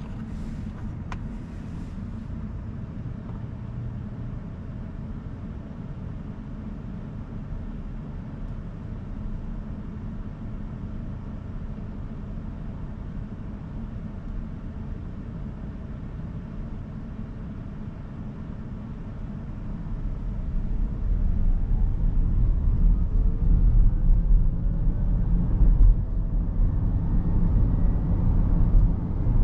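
Inside the cabin of a 2023 Rivian R1S quad-motor electric SUV on the move: a steady low road and tyre rumble. About two-thirds of the way through the rumble grows much louder and a faint rising motor whine comes in as the SUV speeds up.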